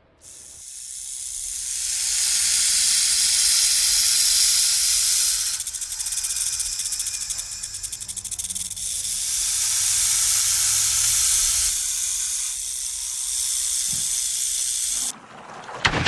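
An animal hissing: a long, loud hiss that builds over the first couple of seconds, eases briefly about five and a half seconds in, carries on, and cuts off abruptly near the end.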